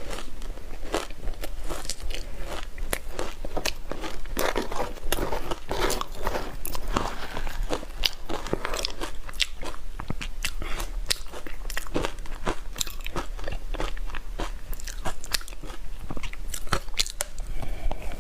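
Close-up crunching of ice being bitten and chewed: a dense, irregular run of sharp cracks and crunches all the way through.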